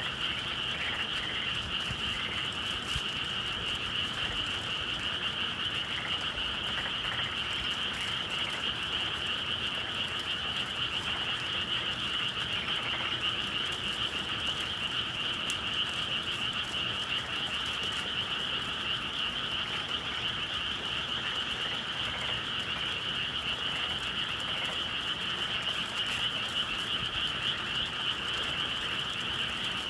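A dense chorus of many frogs calling together without pause, steady and unbroken: a spring evening frog chorus.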